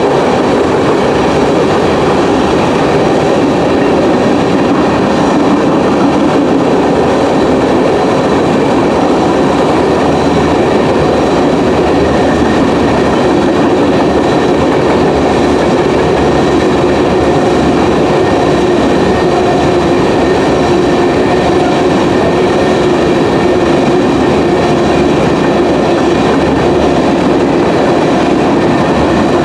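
Freight cars of a grain train rolling past at steady speed: a continuous, loud rumble and clatter of steel wheels on rail, with faint steady high ringing tones above it.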